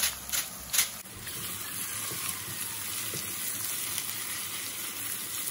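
Squid in chili-shallot paste sizzling steadily as it fries in a wok and is stirred with a spatula. A few short taps come in the first second.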